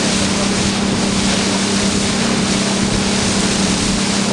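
Motorboat engine running at a steady speed, a constant low hum, under a loud rush of wind and water.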